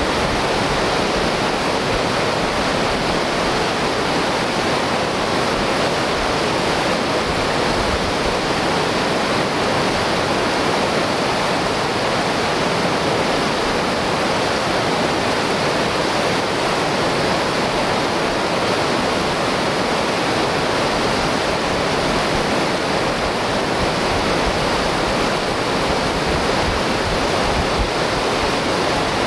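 Whitewater river rapid rushing, a steady, unbroken wash of water noise.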